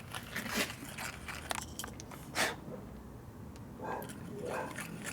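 Hand deburring tool scraping and crunching around the inside of a fuel strainer fitting in short, irregular strokes, clearing out leftover lead solder.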